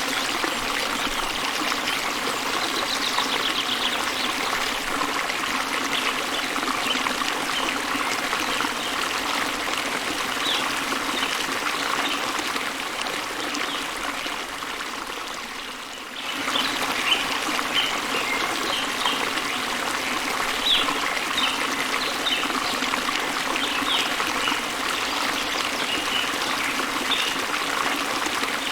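Small waterfall spilling into a flowing river: a steady rush of water. Birds chirp over it, more often in the second half. About halfway the water sound fades down and then cuts back in abruptly.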